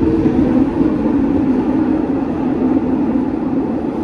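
New York subway 7 train running through the tunnel, heard from inside the car: a steady rumble with a constant mid-low drone.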